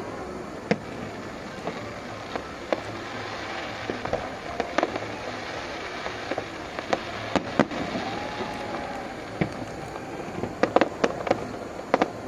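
Aerial fireworks going off in irregular sharp bangs and cracks over a steady background din, with a quick cluster of bangs near the end.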